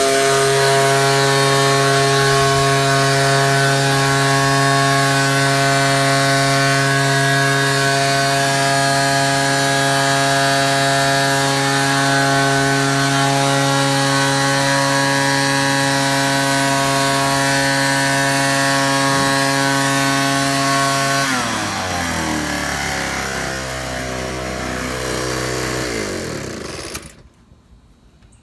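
Ryobi 38cc two-stroke backpack leaf blower running at full throttle with a steady high pitch. About 21 seconds in the throttle is let off and the engine drops to a low idle, then it is shut off and stops about 27 seconds in.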